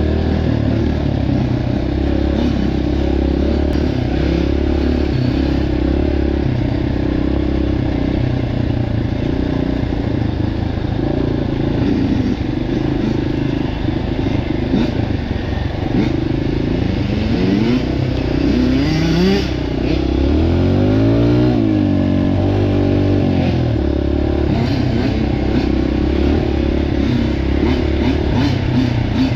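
Dirt bike engines running steadily; a little past halfway, one engine's pitch rises and falls as it revs or passes.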